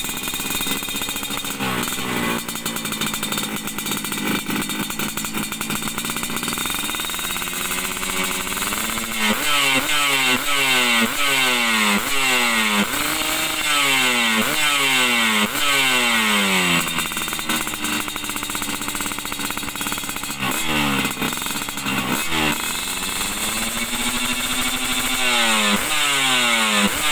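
Motorcycle engine through an aftermarket Kobra underbody exhaust, idling for several seconds and then revved in a long series of quick throttle blips, each rising and falling in pitch. There is a short lull in the revving past the middle before the blips start again.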